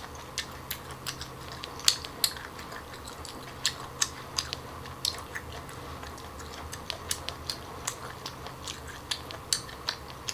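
Close-miked mukbang eating sounds: a person chewing pieces of cooked octopus tentacle, with sharp mouth clicks and smacks at irregular intervals, busier in the first few seconds and again near the end. The octopus is chewy from being recooked.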